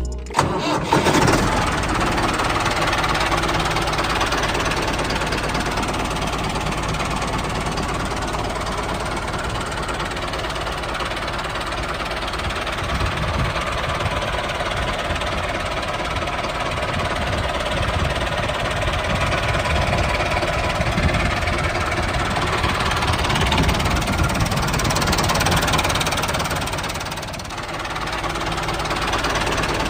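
Homemade mini tractor and chaff cutter machine running: a steady motor drone with a fast rattling knock, dipping briefly near the end.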